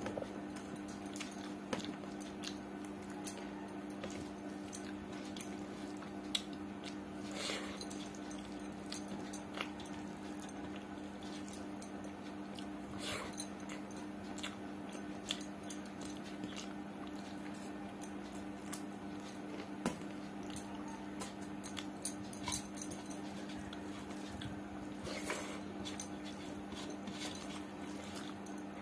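Close-miked eating sounds: chewing and wet mouth smacks as khichdi and potato fry are eaten by hand, with fingers scraping and tapping the steel plates, in irregular short clicks and a few longer smears, over a steady low hum.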